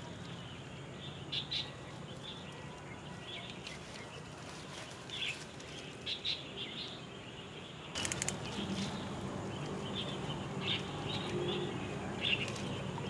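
Small birds chirping in short, scattered calls over a faint steady background hum, with a brief cluster of sharp clicks about eight seconds in.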